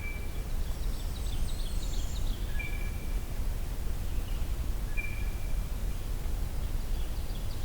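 Blue jay's bell-like call, a short pitched note with a lower one beneath it, given three times about two and a half seconds apart. High, thin notes of small songbirds in the first couple of seconds, over a steady low background rumble.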